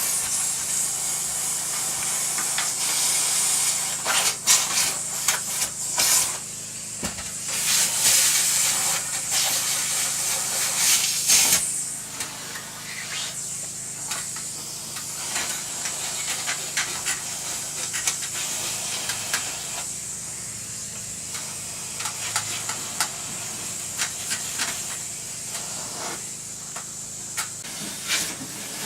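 Duct-cleaning vacuum pulling air through an open cold-air return vent: a loud rushing hiss with scattered sharp clicks. It is loudest for the first twelve seconds or so, then settles to a steadier, quieter hiss.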